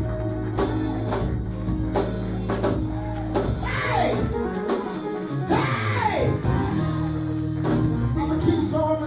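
Live church band music: sustained keyboard chords over a steady drum beat, with two long wordless vocal cries that rise and fall about four and six seconds in.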